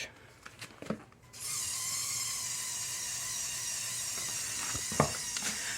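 Lego Technic tractor's small electric motor and plastic gear train whirring steadily under load as it pulls the weighted sled, starting about a second and a half in. A single short click comes near the end.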